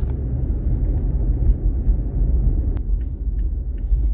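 Steady low road rumble of a pickup truck driving on a dirt road, heard from inside the cab, with occasional light ticks over it.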